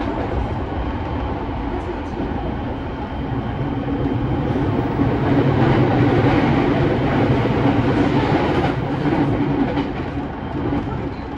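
Interior running noise of a JR E217-series electric commuter train at speed: a dense, steady rumble of wheels on rail and the running gear. It grows louder around the middle and eases off again near the end.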